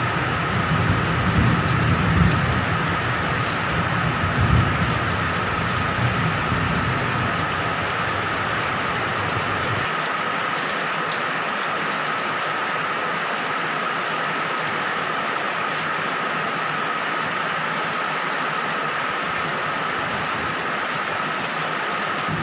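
Steady heavy rain hiss with a low, rolling thunder rumble underneath that cuts off abruptly about halfway through, leaving only the rain.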